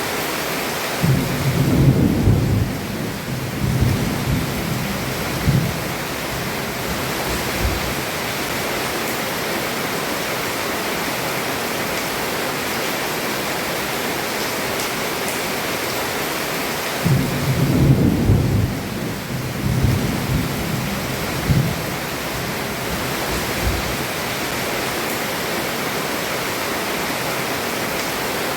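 Heavy rain falling on a roof as a steady hiss. Two rolls of thunder rumble low through it, one starting about a second in and another about seventeen seconds in, each lasting four to five seconds.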